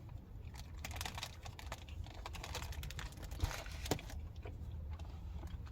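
Close-miked irregular clicks and crinkles of someone eating snacks, handling the food between bites.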